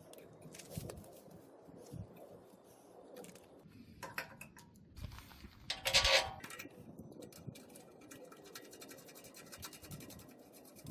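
Hand work on the steel welding cart's parts during assembly: scattered clicks and scrapes, with one louder clank about six seconds in.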